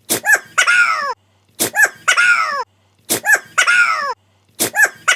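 Caucasian Shepherd puppy sneezing four times, about every second and a half. Each sneeze is two quick sharp bursts followed by a longer squeaky note falling in pitch.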